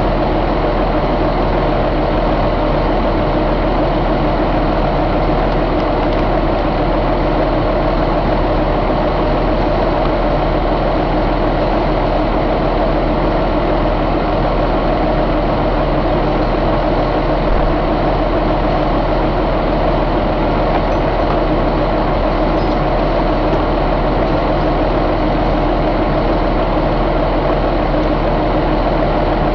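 Cummins ISX inline-six diesel engine idling steadily at a constant speed.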